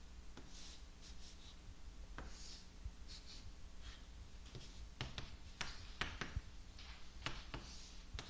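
Someone writing and drawing by hand: short scratchy strokes and sharp taps of the writing tool, coming thicker about five seconds in, over a steady low electrical hum.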